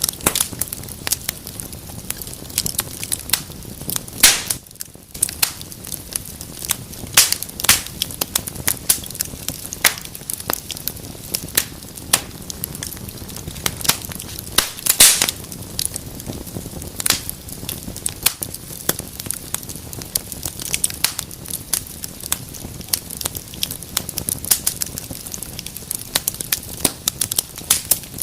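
Fire in a fireplace crackling: a dense, irregular run of sharp pops and snaps of varying loudness over a steady low hiss of flame, with a few louder cracks standing out.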